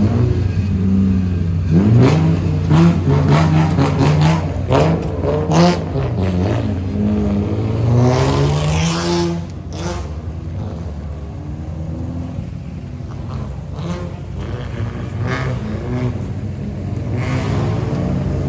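Toyota Soarer GX71's straight-six engine and exhaust, revved in a string of short blips, then one bigger rev about eight seconds in, before settling back to a steady idle for the rest.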